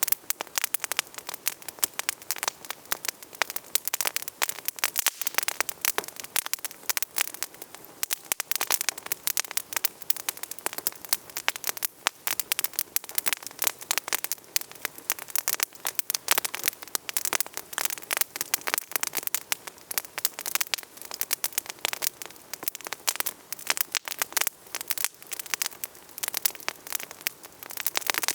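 Wood campfire burning, with dense, constant crackling and popping.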